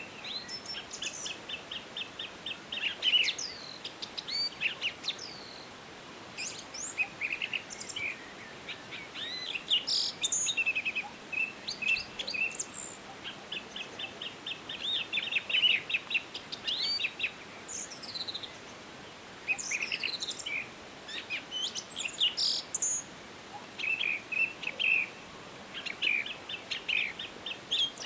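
Several songbirds singing and calling in a forest, a busy mix of rapid chirps, fast trills and short down-slurred whistles over a faint steady background hiss.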